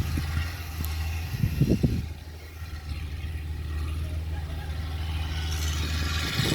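A motor engine running steadily with a low, even hum. A few low knocks come about two seconds in, and the hum drops away just before the end.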